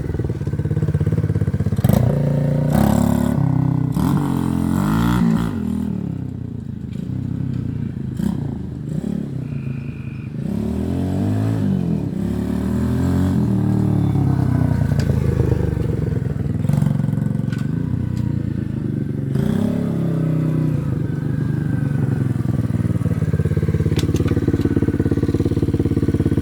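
X-Pro 125 X9 pit bike's 125cc single-cylinder four-stroke engine revving up and down again and again as it is ridden, settling to a steadier note near the end.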